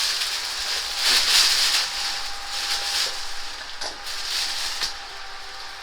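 Rustling and crinkling of plastic bags and packaging being handled, coming in swells about once a second, over a faint steady hum.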